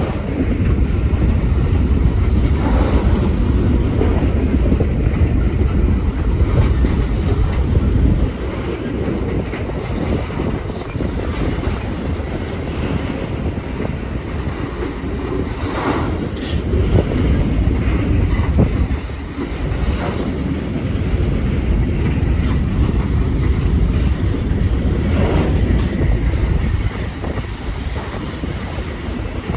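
A train rolling past, a steady low rumble of wheels on rail with scattered clanks at rail joints. It is a little louder for the first eight seconds or so.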